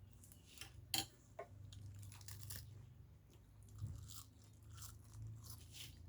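A person chewing and crunching food close by, with a string of irregular crisp crunches, over a faint steady low hum.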